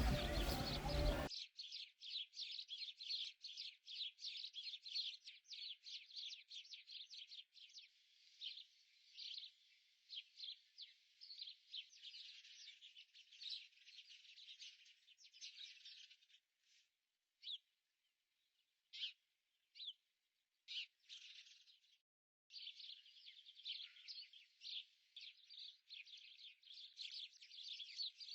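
Small birds chirping rapidly and densely, after a louder mixed sound cuts off about a second in. The chirping thins to a few scattered calls in the middle, then turns dense again near the end.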